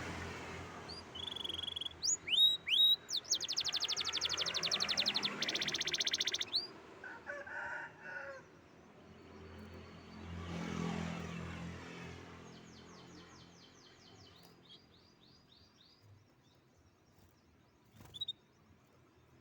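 Domestic canary singing: high chirps and whistles, then a fast, even trill for about three seconds and a later run of quick notes, the song growing quieter in the second half. A single click sounds near the end.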